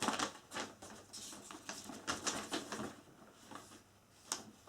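Irregular rustling and light clattering from flat-pack chair parts and packaging being handled, with one sharp click near the end.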